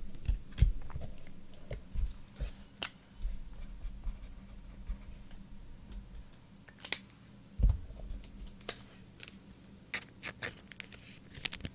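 Scattered crisp clicks and light taps from handling trading cards, with one dull thump about two-thirds of the way through.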